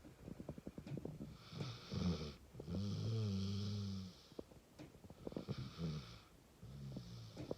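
Pit bull snoring in its sleep: four rattling snoring breaths, the longest and loudest a drawn-out one about three seconds in.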